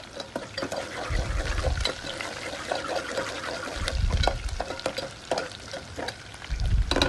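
Sliced onions, dried red chillies and spices sizzling in oil in an aluminium pot as a spoon stirs them, with many sharp clicks and scrapes of the spoon against the pot and a few dull bumps. The tempering is being fried until the onions brown.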